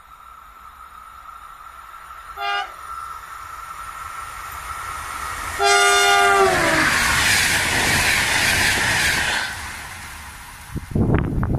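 Electric passenger train with a red HŽ electric locomotive approaching at speed. A steady whine grows as it comes on, then the horn sounds a short toot and, a few seconds later, a longer blast whose pitch drops as the locomotive passes. The rush of the coaches going by follows, then a few rough low gusts near the end.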